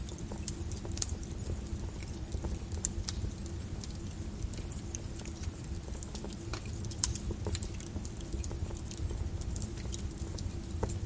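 Wood fire in a fireplace crackling: irregular sharp pops and snaps over the low rumble of the burning fire, with a faint steady hum underneath. A louder pop comes about seven seconds in.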